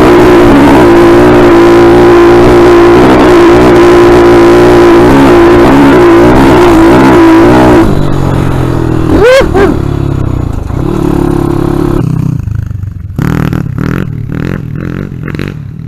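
Dirt bike engine running hard and steady, very loud, then dropping off about eight seconds in. A quick rev blip rises and falls near nine seconds, then it runs lower, with a string of short throttle blips near the end.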